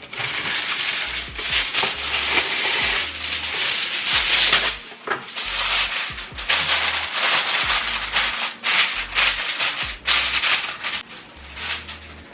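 Tap water running at a sink while hands are washed, a steady rush with brief breaks, over background music with a stepping bass line.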